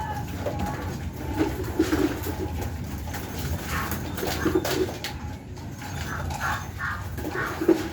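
Pigeons cooing: short low calls repeating at irregular intervals.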